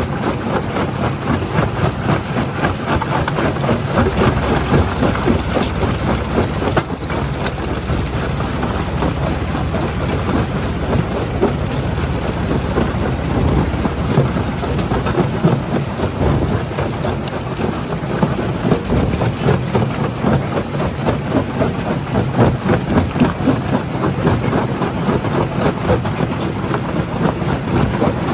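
Primary jaw crusher running under load: a steady heavy rumble with a constant dense clatter of rock being broken and falling.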